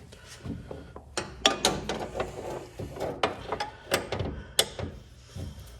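Metal hand tools being handled: a string of irregular clicks and clanks, some sharper knocks among them, from about a second in until near the end.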